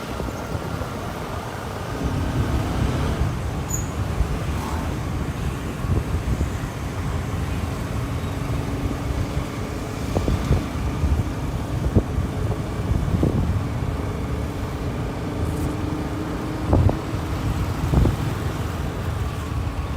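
Motorbike running on the road with traffic noise around it: a steady low engine rumble and hum, with occasional short thumps.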